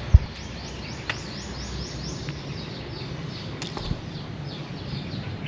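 A bird chirping steadily: short high notes, each falling in pitch, about three or four a second. A sharp thump near the start.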